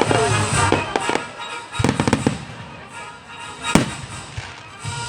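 Fireworks exploding: scattered crackles, a quick cluster of bangs about two seconds in and one loud single bang near the end, with music playing underneath.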